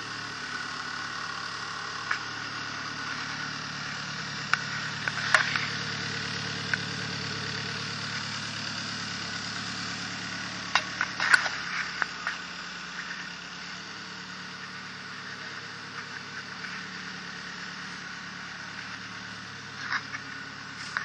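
Custom-built car's engine idling steadily on its first start, with a few sharp clicks and knocks over it. The idle settles a little quieter about halfway through.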